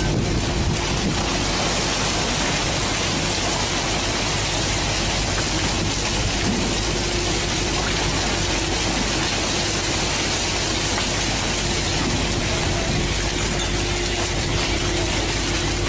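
Steady rushing noise, like heavy rain or spray, over a fishing boat's engine running at a constant drone with a steady hum.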